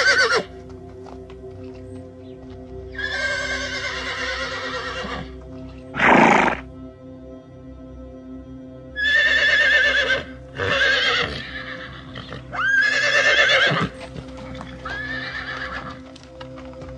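Horse whinnying about five times, each call a loud, quavering neigh of one to two seconds, with a short breathy blow about six seconds in, over steady background music.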